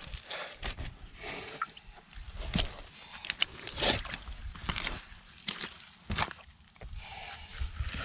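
Irregular knocks and scrapes with sloshing water: hand work in wet, waterlogged ground while clearing a clogged paddy-field underdrain.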